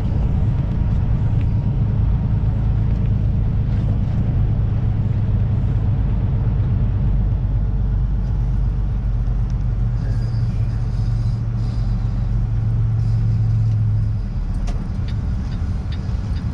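Kenworth semi-truck's diesel engine running steadily at low speed with a deep drone, which eases off about fourteen seconds in.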